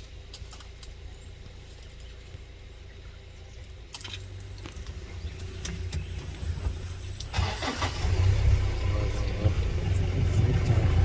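Safari vehicle's engine starting about four seconds in, then running, growing clearly louder a few seconds before the end.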